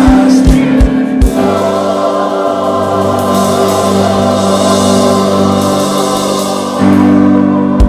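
Church choir singing with instrumental accompaniment at the close of a song: a run of low percussion beats in the first second, then a long held final chord, with a last strike right at the end.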